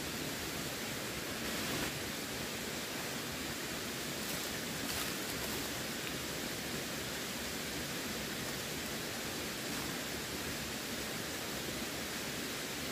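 Running water flowing steadily, a continuous even rush with no distinct splashes.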